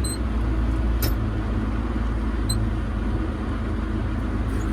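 Farm vehicle engine running steadily with a low hum, with a few faint high ticks.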